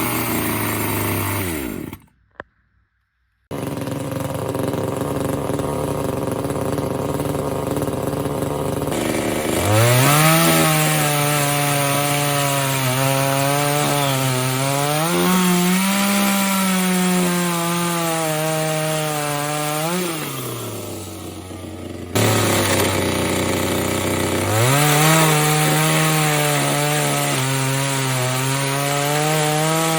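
Parkside PBBPS 700 two-stroke petrol top-handle chainsaw running and cutting wood, its engine pitch wavering under load. It drops back to idle about two thirds of the way through, then revs up and cuts again. There is a brief gap of silence near the start.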